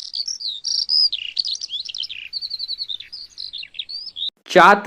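Starling singing: a varied, continuous string of high whistles, chirps and clicks, with a quick run of repeated notes about halfway through.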